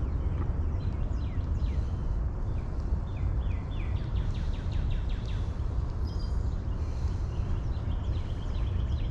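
Songbirds calling over a steady low rumble: a few downward-slurred chirps, a quick run of repeated notes in the middle, and a trill near the end.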